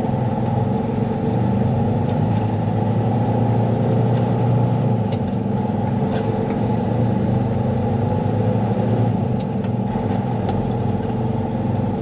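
Semi truck's diesel engine running steadily, heard from inside the cab as a constant low drone.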